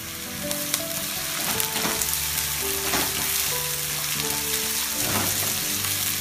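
Onion and boiled diced vegetables sizzling in hot oil in a non-stick wok, stirred with a wooden spatula that scrapes and taps against the pan.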